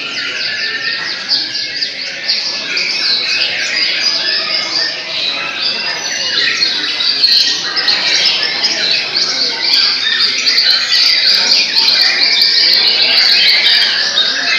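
Several caged white-rumped shamas (murai batu) singing at once in a contest, a dense chorus of overlapping rapid whistles and chattering phrases that gets a little louder in the second half.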